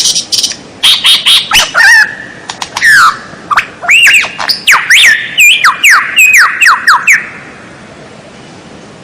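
Songbird tutor recording: a rapid run of loud whistled notes with sharp rising and falling glides, mixed with harsh squawky notes, that stops about seven seconds in, leaving faint hiss.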